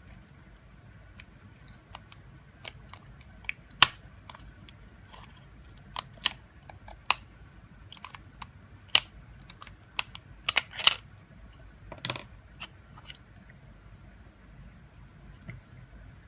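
Irregular sharp clicks and snaps of plastic parts and small tools being handled while the top housing of a Google Home Mini is taken apart. The clicks are scattered, with a loud one about four seconds in and a denser cluster with short scrapes between about nine and twelve seconds in.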